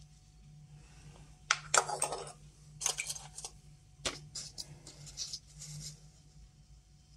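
Small metal Geiger counter tubes clinking and rattling against each other and a hard surface as they are handled, in several short bursts, loudest a couple of seconds in.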